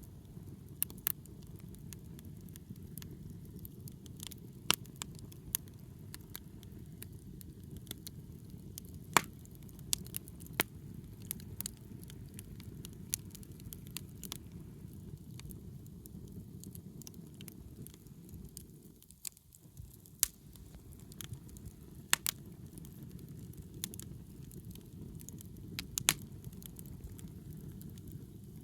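Wood campfire burning with a steady low rush, with sharp crackles and pops at irregular intervals.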